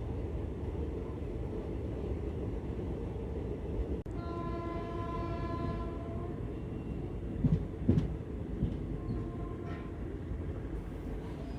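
Passenger train running with a steady low rumble. A train horn sounds for about two seconds about four seconds in, and a shorter, fainter horn comes near nine seconds. Two heavy clunks come just before eight seconds.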